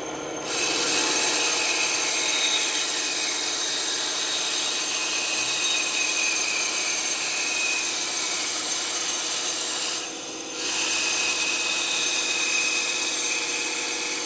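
Band saw running and cutting through a thick block of wood, a steady noisy whir. It drops away briefly about ten seconds in, then picks up again.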